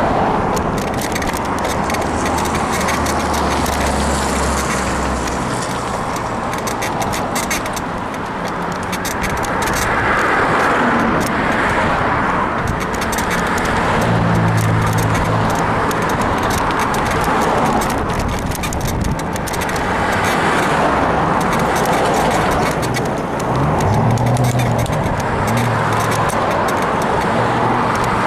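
Bicycle in motion, its suspension frame creaking in quick, constant clicks that the rider puts down to a worn suspension bushing, over a steady rushing noise. A motor vehicle passes about halfway through and again near the end.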